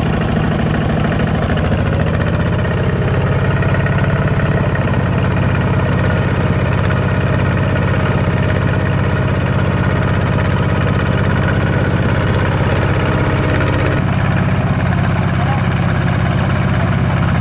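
Tractor engine running steadily, a low even drone.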